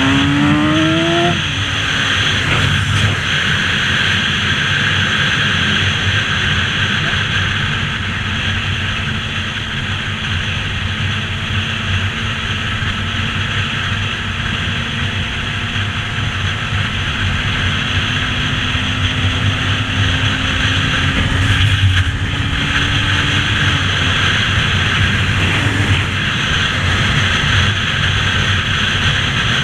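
Motorcycle engine revving up hard in the first second or so, then running steadily at speed with its pitch creeping slowly upward before it eases off near the end, under a loud rush of wind on the microphone.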